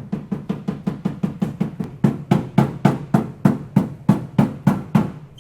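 Hammer striking the car's sheet-metal body panel in a fast, even run, about six blows a second at first, then slower and harder at about three a second, stopping abruptly near the end. This is hammering on the panel while it is being pulled out on the frame machine.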